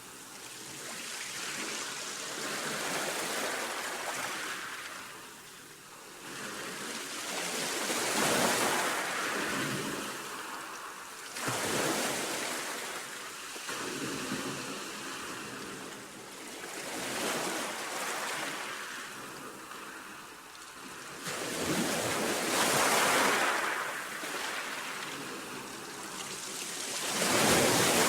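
Baltic Sea surf: waves breaking and washing in, the rush swelling and fading every few seconds, with a sudden, louder break near the end.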